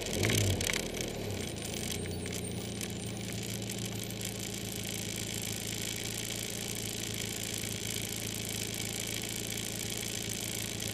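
Caterham Super Seven engine dropping back in the first second, then idling steadily with an even, unchanging note.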